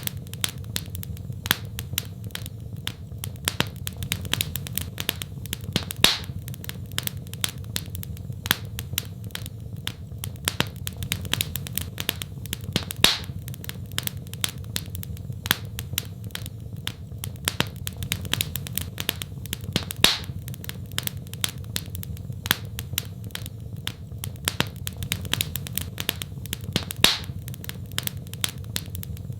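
Wood fire crackling: a steady run of small sharp snaps, with a louder pop about every seven seconds, over a low, steady rumble of burning.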